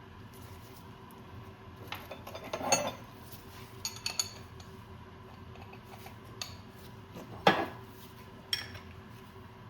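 Metal tools and parts clinking and knocking as they are handled, about six separate strikes with the loudest about seven and a half seconds in, over a steady low hum.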